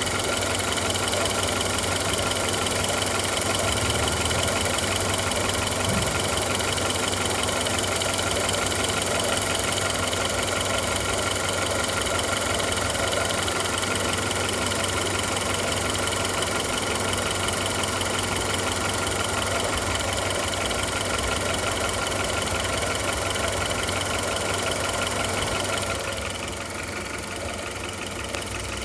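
Audi A2 1.4 AUA four-cylinder petrol engine idling steadily with a rapid, even ticking. The ticking is the fault being shown, its cause not stated. The sound gets a little quieter near the end.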